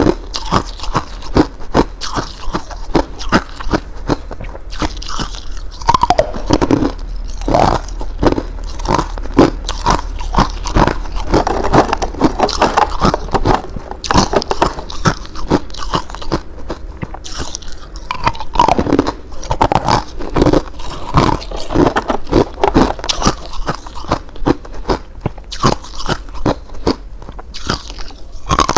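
Ice being bitten and chewed: rapid, irregular crunches and cracks, several a second, with no pause. A steady low hum lies underneath.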